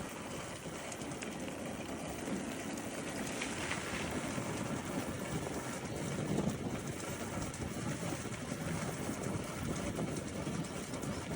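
Steady rushing wind and road noise from a motorcycle on the move, with wind buffeting the microphone.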